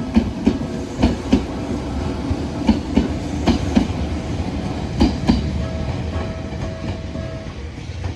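Toyohashi Railway train passing over a level crossing, its wheels clicking over the rail joints in quick pairs with a steady rumble. The crossing's warning signal sounds a steady tone that stops about seven and a half seconds in.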